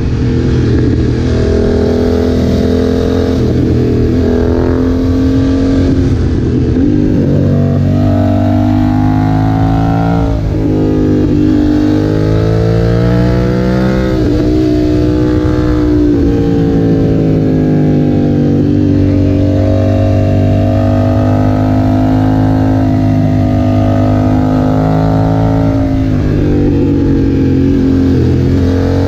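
BMW F900R's parallel-twin engine running through a Leo Vince aftermarket exhaust while the bike is ridden. The engine pitch climbs and drops several times as the rider accelerates and lets off, then makes one long, slow climb in the second half before falling again near the end.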